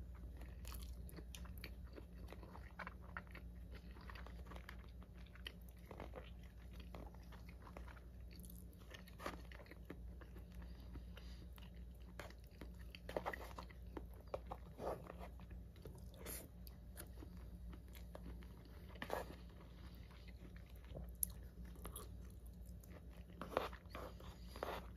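Close-up eating sounds: wet chewing of soy-marinated raw fish and rice, with irregular short clicks of wooden chopsticks against a plastic bowl. A steady low hum runs underneath.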